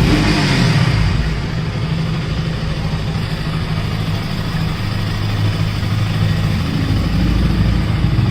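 KTM RC 200 BS6's single-cylinder engine running through its exhaust: a rev dropping back to a steady idle in the first second, then the revs rising a little near the end.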